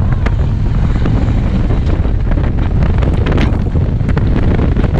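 Loud, steady wind buffeting on the microphone of a GoPro riding on a moving motorcycle, with the motorcycle's engine running underneath.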